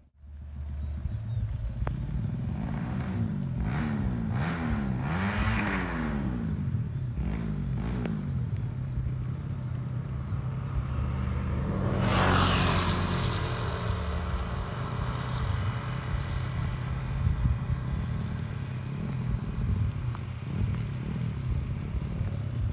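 Honda C70-based single-cylinder four-stroke motorcycle engine, enlarged to 180cc, revved up and down several times. It then runs on steadily, with a louder rushing surge about twelve seconds in.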